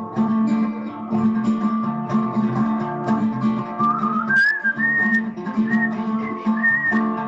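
Acoustic guitar strumming the song's chords after the last sung line, with a person whistling the melody over it from about four seconds in.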